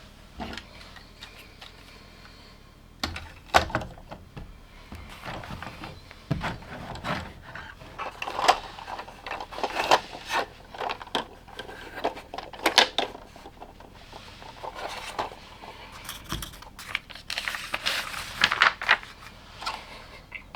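LEGO plastic bricks and parts being handled and snapped together: irregular clicks, taps and short clattering rattles, with busier flurries now and then.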